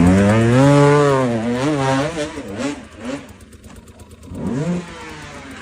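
Off-road motorcycle engine revving hard: the pitch climbs and then falls back, wavers with quick throttle changes, dies down, and rises again in a shorter rev near the end.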